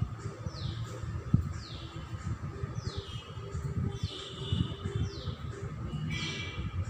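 Birds chirping in a steady series of short, high, falling chirps, about one a second, over a low rumbling background noise.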